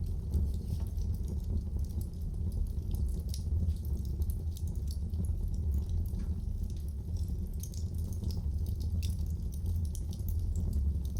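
Wood fire crackling in a fireplace, with many small irregular pops and snaps over a steady low rumble.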